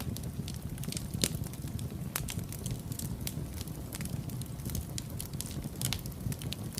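Wood fire burning in a fireplace: a steady low rumble of the flames with irregular sharp crackles and pops, the loudest pop about a second in.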